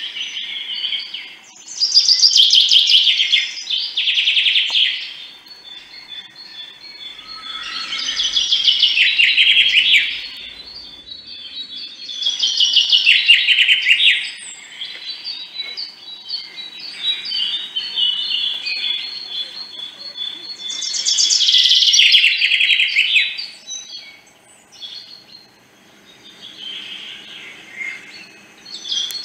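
Birds chirping and trilling in loud bursts every few seconds, with fainter chirps in between.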